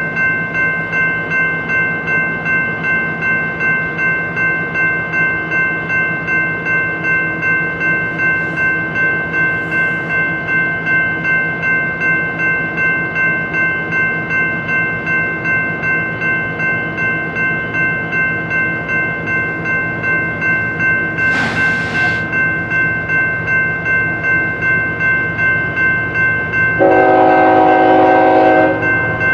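Railroad grade-crossing bell ringing steadily, about two strokes a second, as a BNSF freight train rolls by. Near the end a diesel locomotive's air horn sounds once for about two seconds.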